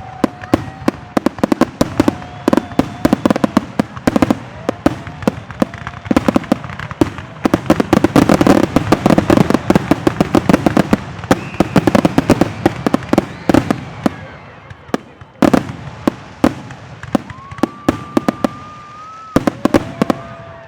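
Fireworks finale: a dense, rapid barrage of aerial shell bursts and crackling bangs, with several whistling shells sounding over it. It is thickest in the middle and thins out near the end.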